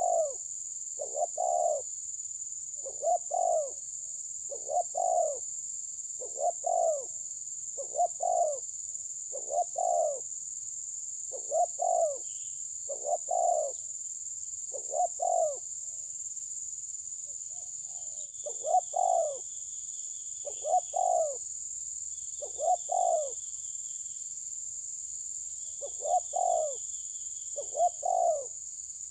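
A bird's short low call repeated about once a second, with a few brief pauses, over a steady high-pitched hiss or drone. A faint, higher trilling call joins in from a little past the middle.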